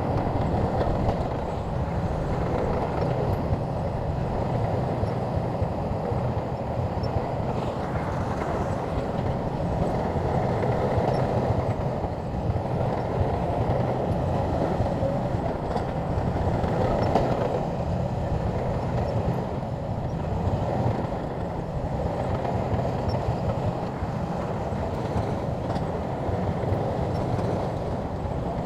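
Shantui crawler bulldozer running steadily, its diesel rumble mixed with a continuous clattering rattle.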